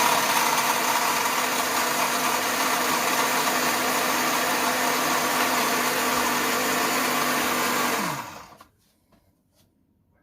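Electric blender running steadily as it purees a cashew salad dressing, then switched off about eight seconds in, its motor winding down with a falling pitch.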